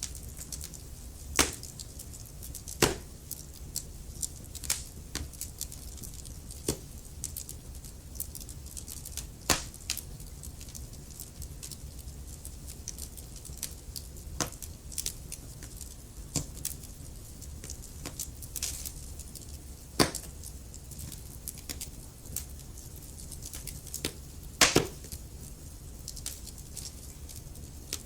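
Wood fire crackling in a fireplace: irregular sharp snaps and pops over a low steady rumble of the flames, with a handful of louder pops standing out.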